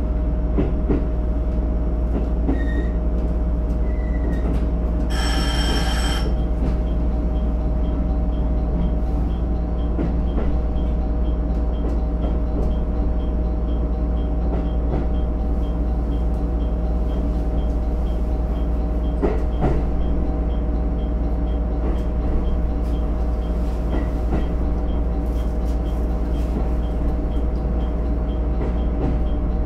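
Steady hum of a JR East GV-E400 diesel-electric railcar heard from inside the front car, from its diesel engine and electric drive, with a strong low drone and a few steady tones that hold their pitch. About five seconds in, a short electronic tone sounds for about a second.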